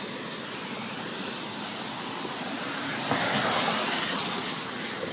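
Steady rushing water noise of rain and a wet street, growing louder about three seconds in.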